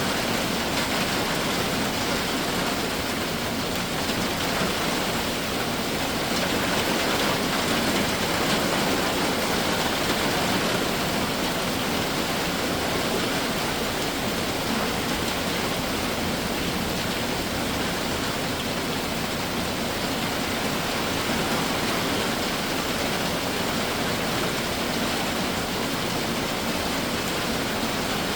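Heavy summer rain shower falling steadily: an even, unbroken hiss with no single drops or other events standing out.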